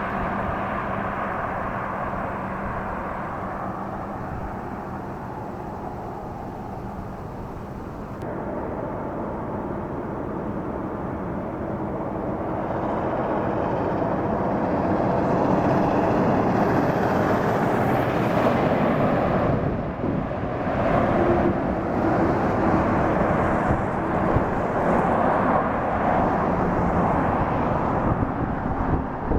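Steady vehicle noise that grows louder about halfway through.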